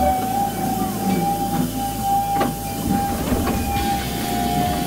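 Narrow-gauge train running, heard from on board: a low rumble of the wheels with a few sharp clicks, under a steady high-pitched squeal.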